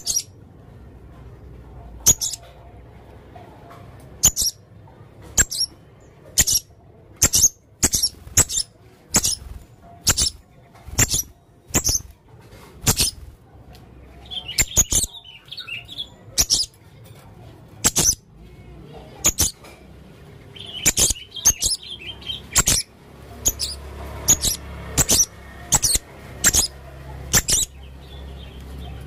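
Male blue-crowned hanging parrot (serindit) calling steadily: a long series of short, shrill, very high-pitched notes, roughly one a second or a little faster, with a few stretches of softer twittering between them.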